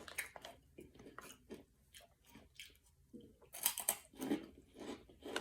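Someone chewing a mouthful of crunchy plant-based pork rinds: a run of irregular crisp crunches, softer at first and louder from about three and a half seconds in.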